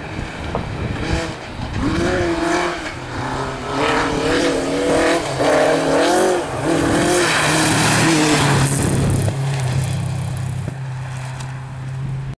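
Rally car engine revving hard, its note rising and falling repeatedly through gear changes, with tyre and surface noise; in the second half the engine holds a steadier note before fading slightly.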